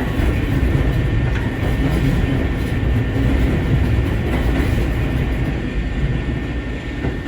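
Eizan Electric Railway train running, heard from inside the passenger car: a steady rumble of wheels on the track.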